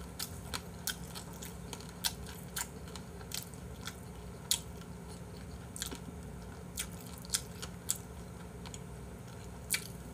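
A person chewing close to the microphone: sharp wet mouth clicks and smacks at irregular intervals, over a low steady hum.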